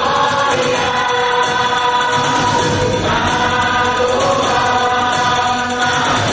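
A youth choir singing, holding long chords that shift every second or two.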